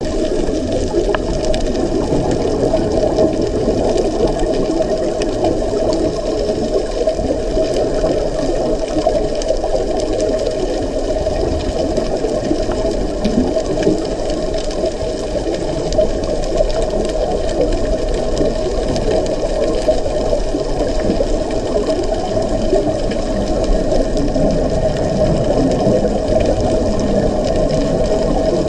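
Steady, muffled water noise, heavy in the low range, with a faint steady hum above it.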